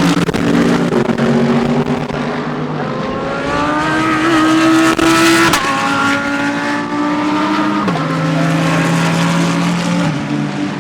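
GT3 race car engines at speed. One accelerates with a rising pitch, then drops sharply on an upshift about halfway through, and the pitch steps down again twice near the end.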